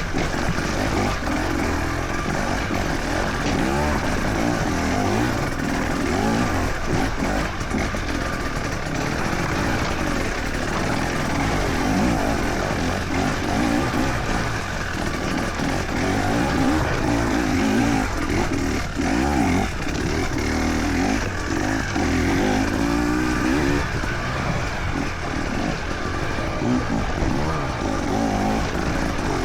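Enduro motorcycle engine revving up and down again and again, continuous throughout.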